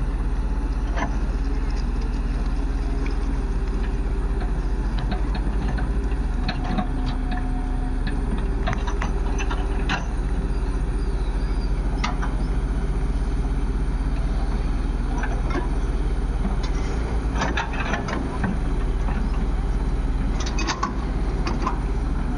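Heavy diesel engine running steadily, with sharp metallic clanks now and then as mud is loaded.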